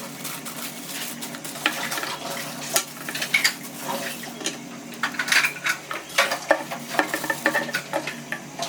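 Speaker packaging being peeled open and unwrapped by hand: irregular crinkling, rustling and small clicks of plastic wrapping, busier in the second half.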